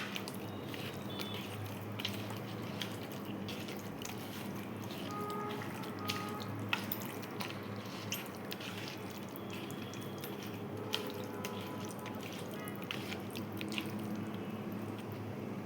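Raw chicken pieces being mixed by hand with oil and ground spices: soft wet squelching with scattered small clicks, over a low steady hum.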